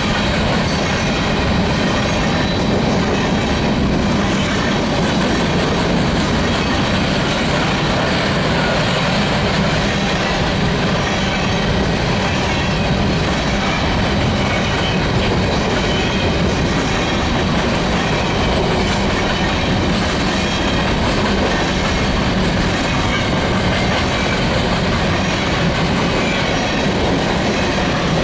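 Freight train of grain hopper cars rolling past at speed: a steady, loud noise of steel wheels on rail with a faint clickety-clack.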